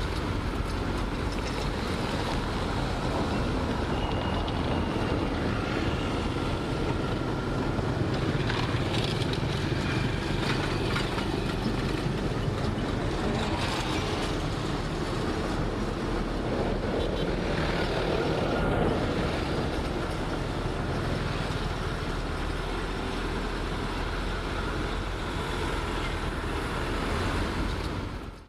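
Heavy earthmoving machinery working, a diesel engine running steadily under load with mechanical clatter. The sound dips away suddenly at the very end.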